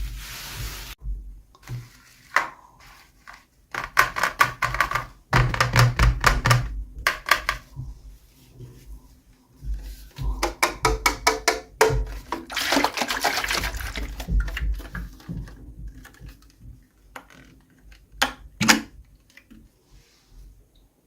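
Toy packaging and small pieces being handled during an unboxing: bursts of crinkling, clicking and tapping with short pauses in between.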